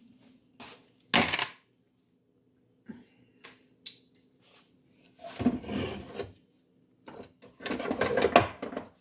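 A spoon stirring soup in a cooking pot, scraping and knocking against the pot in irregular bursts, with a sharp clack about a second in and a few light clicks.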